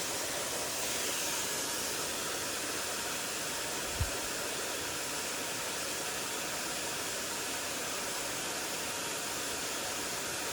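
Mountain stream water rushing, a steady even hiss. There is one brief low thump about four seconds in.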